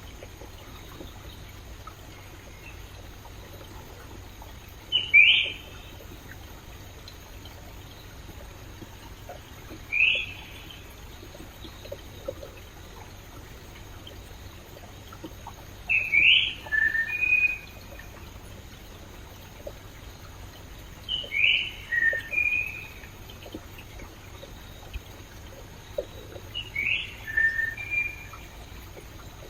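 Steady trickling of a flowing stream under a bird that calls over and over: a short, loud call about every five seconds, the later calls breaking into two or three quick notes.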